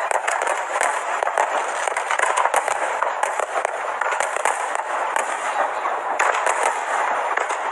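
Fireworks going off: a dense, unbroken crackle of many small overlapping pops and bangs.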